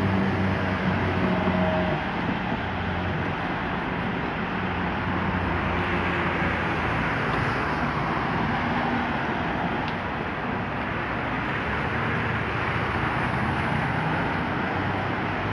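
Heavy rain falling steadily on a wet street, a constant hiss. A low engine hum from cars on the road sits underneath, clearest at the start and near the end.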